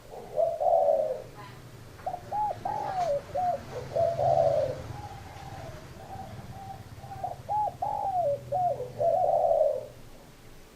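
Spotted dove cooing: two song phrases, each a few short coos running into a longer drawn-out coo, with a brief coo right at the start.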